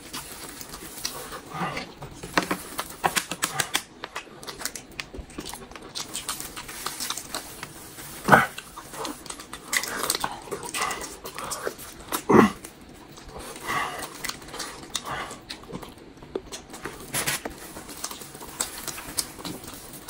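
Close-miked eating sounds: wet chewing and lip-smacking as a piece of braised meat is bitten and gnawed, with many small clicks and two louder smacks, about 8 and 12 seconds in.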